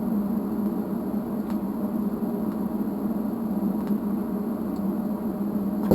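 A steady, even hum-like noise with a few faint clicks.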